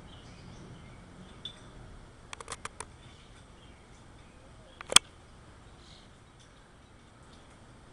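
A quick run of about five sharp clicks, then a single much louder sharp click a couple of seconds later, over a quiet outdoor background with faint high chirps.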